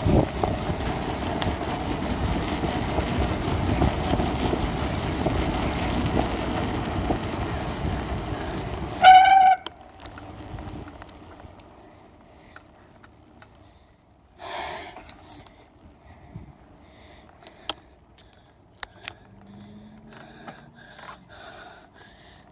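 Wind and rolling noise on a handlebar-mounted phone during a bicycle ride, cut short about nine seconds in by a brief high squeal as the bike stops. After that it is much quieter, with scattered small clicks and a short rush of noise around the middle.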